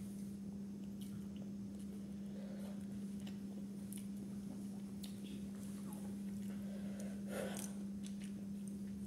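Quiet chewing and small clicks of eating by hand over a steady low hum, with a short rustle about seven seconds in as a paper napkin is wiped across the mouth.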